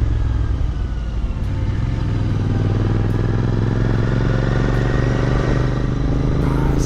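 Royal Enfield Continental GT 650's parallel-twin engine running at steady revs.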